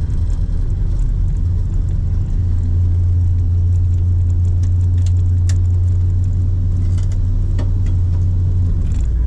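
Chevrolet K5 Blazer's carbureted engine running under way with a deep, steady drone. It pulls harder about two seconds in and settles back to a lower note near the end.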